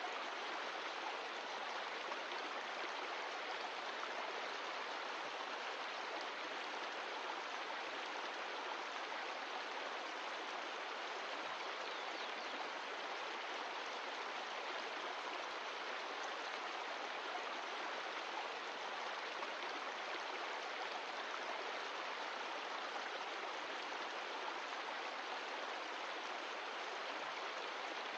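Mountain stream of glacial meltwater rushing and splashing over rocks, a steady, even rush of water.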